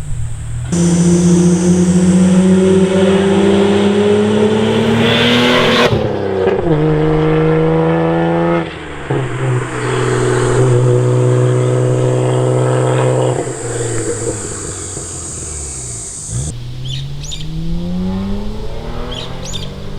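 Toyota Mark II's 1JZ-GTE twin-turbo straight-six through an aftermarket dual exhaust, pulling up through the revs with upshifts about six and nine seconds in. It then holds a steady cruise, eases off with the revs falling, and starts accelerating again near the end.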